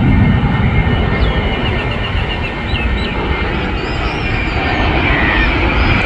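Engine noise of a jet airliner arriving on approach, a steady loud rumble. A few short bird chirps sound in the first half.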